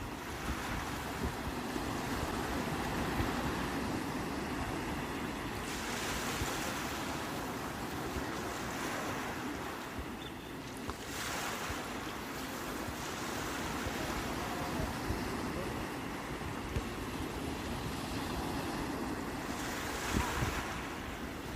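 Sea surf washing steadily, with a louder hiss three times as waves break and wash in. Wind rumbles on the microphone underneath.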